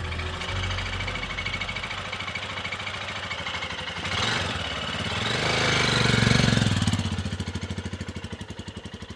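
Single-cylinder Royal Enfield Himalayan motorcycle engine running with a rapid, even beat of firing pulses. It grows louder to a peak a little past the middle, then fades away.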